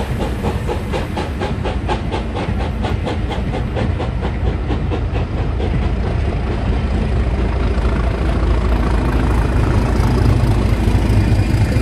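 Train pulling away: the steady beat of a steam locomotive working, about three a second, fades over the first half, while the English Electric V12 diesel of Class 37 No 37075 at the rear draws near, its low engine rumble growing louder toward the end.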